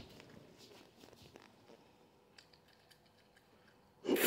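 Faint, soft chewing of a sour gummy bear close to the microphone, with a few small clicks. About four seconds in, a sudden loud rushing noise comes right up against the microphone.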